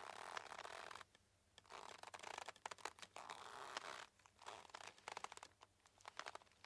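Boat rope creaking as it strains: a run of rasping, crackly creaks, each lasting up to about a second, with short pauses between them.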